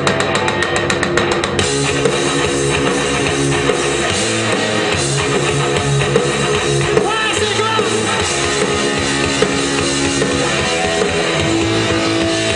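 Live rock band playing loud: electric guitars and drum kit, with a rapid even run of hits for the first second and a half, then held guitar chords over the drums.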